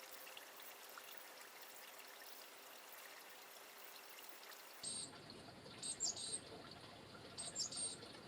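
Faint steady hiss for the first half. Then, from about five seconds in, a small bird's high, thin calls come in three short bursts about a second apart.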